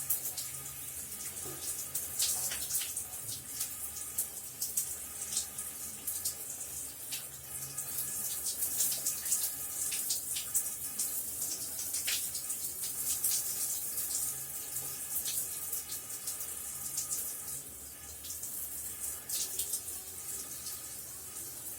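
Shower water running steadily, spray pattering in a continuous hiss with many small splashes.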